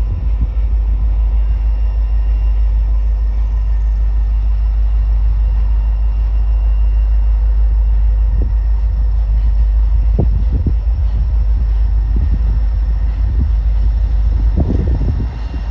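Norfolk Southern diesel freight train rumbling past steadily, with a faint steady whine above the rumble and a few sharp clicks from the wheels partway through.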